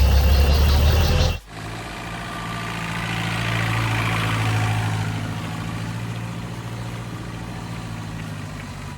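Off-road vehicle engine running. A loud, deep engine sound cuts off abruptly about a second and a half in and is replaced by a steady engine note that swells and then eases off.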